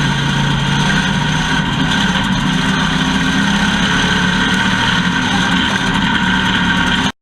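Factory stock race car engine running at a steady pitch, loud and even, cutting off abruptly near the end.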